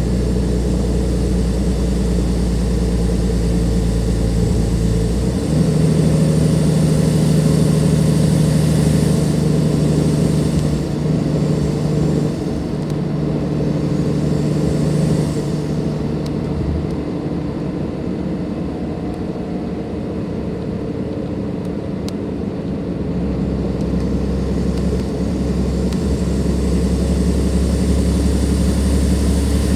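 Cummins ISLe straight-six diesel of a Dennis Enviro 500 double-decker bus, idling low at first. About five seconds in it pulls away under power with a higher engine note until about sixteen seconds, then eases off and runs quieter before settling back to a low idle near the end.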